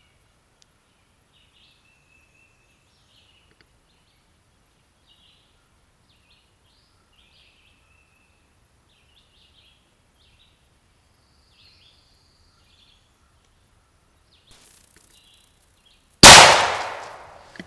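Faint songbirds chirping, then near the end a single very loud shot from a Stevens 301 .410 single-shot shotgun, its report rolling away over about a second.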